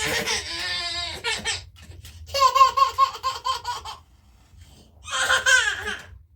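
A young child laughing in three bursts with short pauses between.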